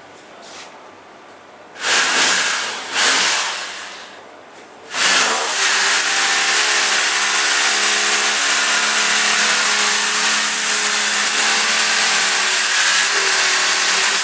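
Electric power tool running: two short bursts, then a long steady run from about five seconds in, with a motor hum under a loud, hissing cutting noise.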